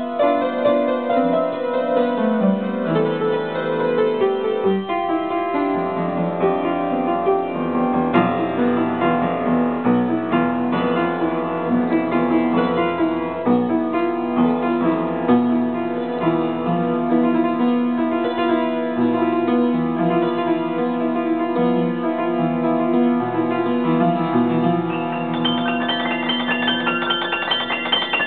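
Solo piano playing continuously. A descending run sweeps down through the middle register in the first few seconds, and about 25 seconds in, quick repeated notes enter high in the treble.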